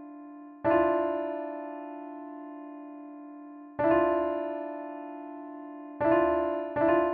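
A single electric-piano-like keyboard note struck and left to ring and fade, repeated about every three seconds, then struck twice in quicker succession near the end.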